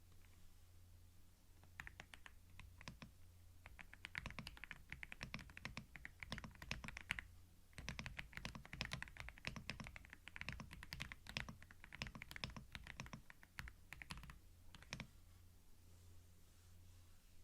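Typing on a computer keyboard, picked up close on a binaural microphone: runs of rapid key clicks begin about two seconds in, pause briefly near the middle and stop a couple of seconds before the end. A steady low hum lies underneath.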